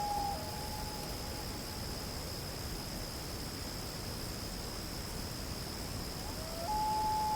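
A mystery animal call over a steady high-pitched drone. A long whistled note ends just after the start, and the call comes again near the end: a short rising lower note, then a long held higher note.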